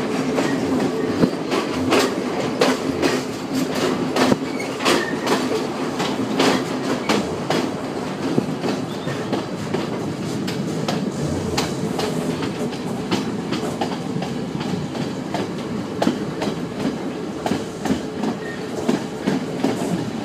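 Passenger train running along the track, heard through an open carriage window: a steady rumble with irregular clicks and knocks of the wheels over the rail joints.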